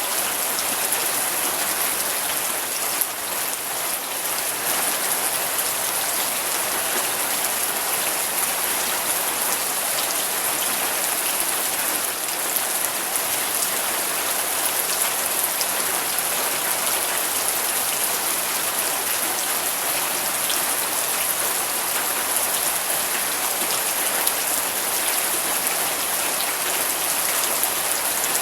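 Steady rain falling and pattering on surfaces, a dense even hiss with many small drop taps.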